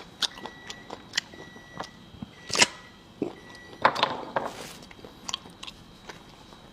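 Close-miked eating: a person chewing and biting, with wet mouth clicks and two louder crunches about two and a half and four seconds in.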